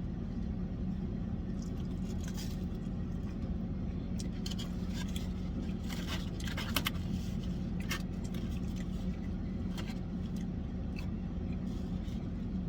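Someone eating fried fish and chips, with faint crunching and scattered small clicks over a steady low hum.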